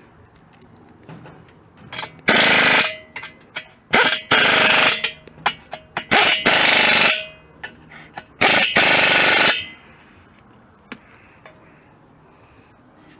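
Electric arc welding of steel plates onto an engine stand frame: four short bursts of crackling, each about a second or less, between about 2 and 9 seconds in.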